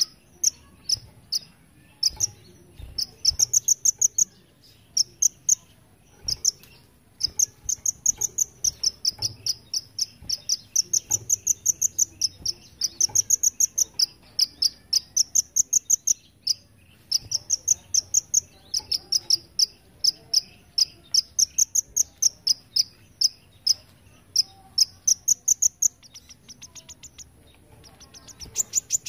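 Kolibri ninja sunbird singing rapid, high, insect-like trills: burst after burst of fast ticking notes in the 'belalang emas' (golden grasshopper) style that bird-keepers prize, with a short pause about a second into the second half.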